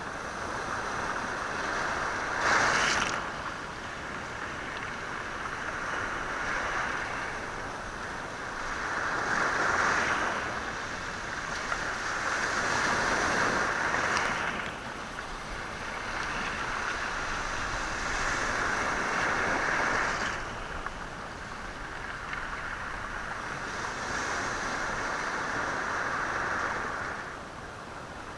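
Sea waves washing in and out over a stony shore, the stones rattling in the surge. The wash rises and falls every several seconds, with one sharper crash about two and a half seconds in.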